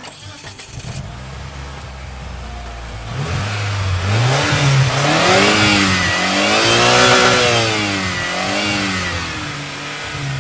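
Sports car engine sound effect: a low rumble at idle, then the engine revs up and down several times, loudest in the middle.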